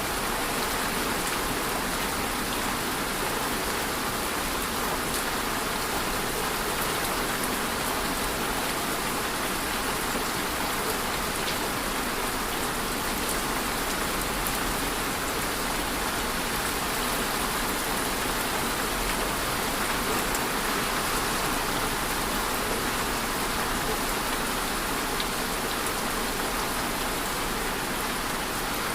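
Steady rainfall: an even hiss of rain falling and pattering on surfaces, with a few faint drop ticks.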